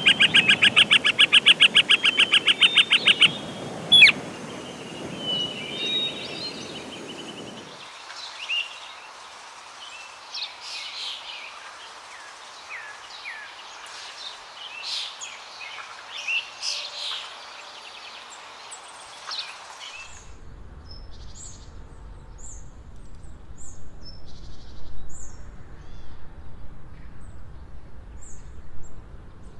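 Calls of several different birds in a row, apparently separate recordings joined by cuts: first a loud, fast run of rapidly repeated notes for about three seconds, then a sharp click, then scattered short chirps and whistles, and in the last third sparse, short, high calls.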